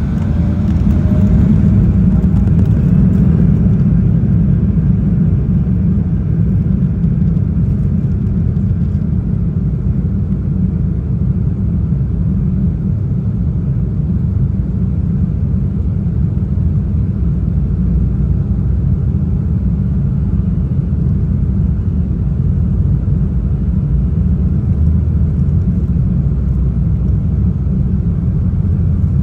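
Jet airliner cabin noise in flight: a steady, deep rumble of engines and airflow.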